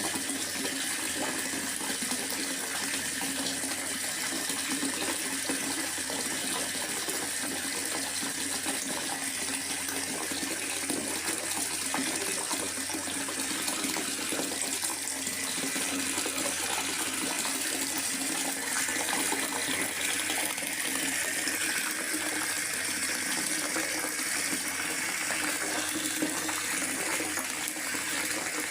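Steady rain falling in a forest: an even hiss with no breaks or single events.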